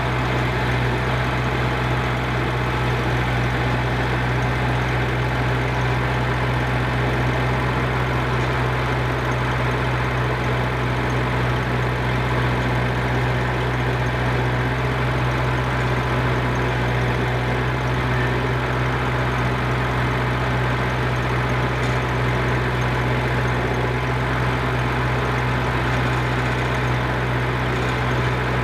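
Engine running steadily at a constant speed, with a strong low hum and no change in pitch or load.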